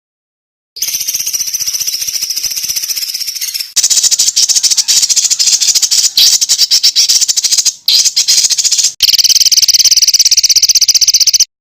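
Masteran recording of harsh, rapid, high-pitched songbird trills and chatter, cut together as clips. After a second of silence comes a quieter buzzing trill, then a louder burst of dense, rough chattering with a short break, then a steady pulsing high trill that cuts off abruptly near the end.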